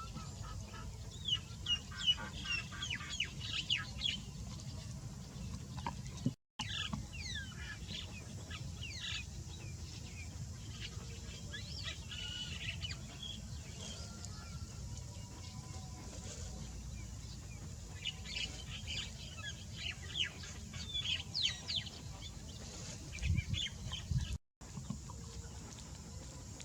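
Birds chirping in clusters of quick, downward-sliding high calls, over a steady low rumble. The sound cuts out completely twice for a moment.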